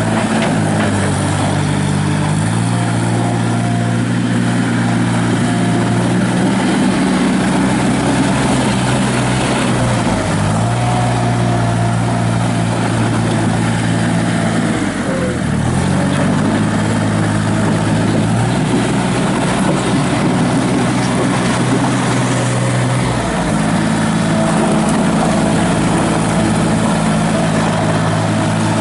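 Gehl 4835 skid steer loader's engine running under work, its speed stepping up and down several times, with a sharp dip and recovery about halfway through. A thin whine rises and falls above the engine as the machine is driven and its controls are worked.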